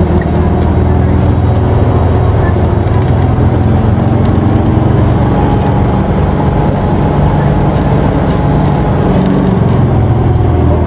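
Diesel engine of a Toei PKG-KV234L2 city bus (Isuzu Erga) heard from inside the cabin, running hard as the bus drives on: a loud, steady engine drone.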